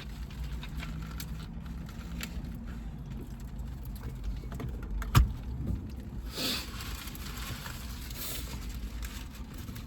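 Steady low hum, with a single sharp click about five seconds in and a short rustle about a second later.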